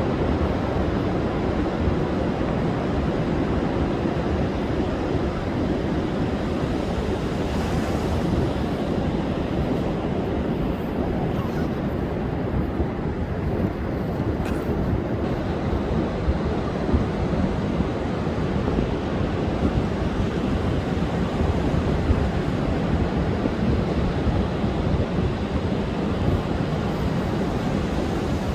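Heavy surf breaking continuously on the shore in storm seas under a wind-wave advisory, with wind buffeting the microphone. Steady, with no pauses.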